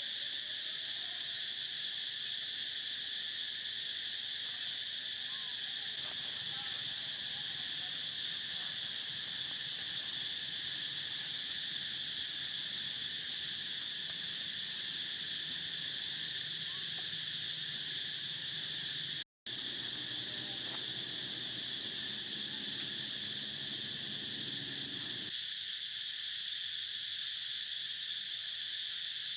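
Steady insect chorus: a continuous high-pitched shrilling of crickets or cicadas that does not change. It cuts out briefly about nineteen seconds in.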